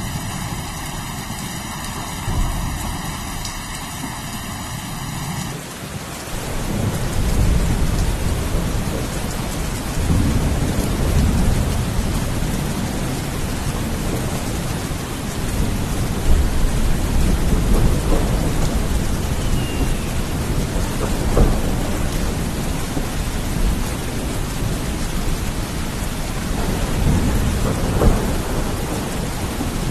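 Steady heavy rain with thunder. A deep low rumble of rolling thunder builds about six seconds in and carries on under the rain, with a few sharper cracks later.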